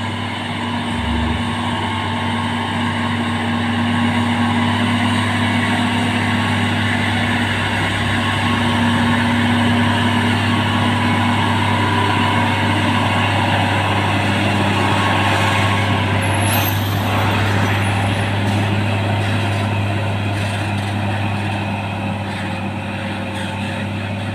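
Hino trailer truck's diesel engine pulling steadily uphill under load, a continuous low drone that grows louder and then eases off near the end as the truck passes. About two-thirds of the way through there is a brief high whistle.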